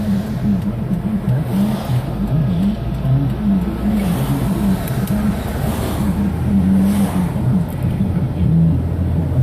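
Steady low roar of a ruptured natural gas line burning, a deep rumble with a wavering hum, like jet engines.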